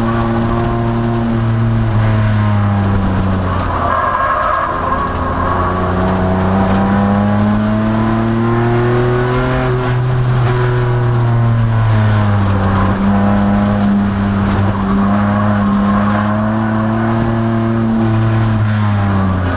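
2002 Nissan Maxima's V6 engine under racing load. Its note falls sharply about three and a half seconds in, climbs steadily for several seconds, drops again about twelve seconds in, holds, and falls once more near the end, with road and tyre noise throughout.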